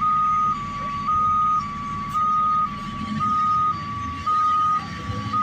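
A truck's two-tone reversing alarm, switching back and forth between a higher and a lower pitch about once a second without a break, over the low running of the truck's engine.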